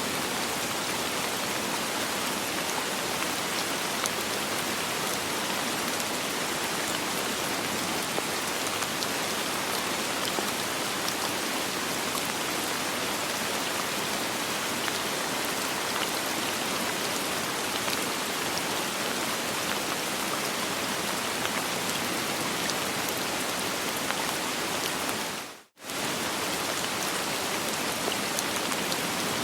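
Steady soft rain with no thunder, an even hiss of falling rain with scattered drop ticks. The sound cuts out for a split second near the end, then resumes.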